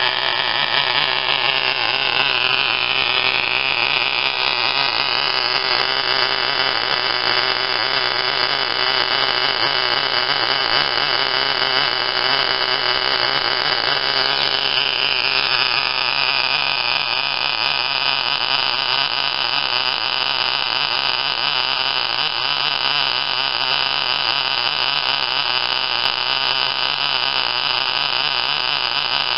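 Tiny model glow-fuel engine running at high speed with a loud, steady buzz; its pitch rises about two seconds in and shifts again about halfway through.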